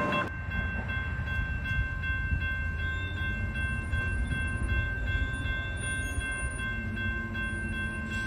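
Low, steady rumble of a diesel train, with a constant high-pitched whine of several even tones over it.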